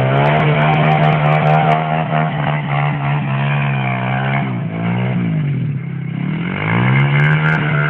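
Honda Blade 110 underbone motorcycle's small single-cylinder engine running hard as it is ridden over grass. The revs dip and swing twice about midway, then climb and hold again near the end.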